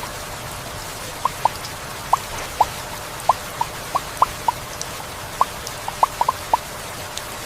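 Heavy rain falling steadily as an even hiss, with large drops plinking irregularly, several times a second.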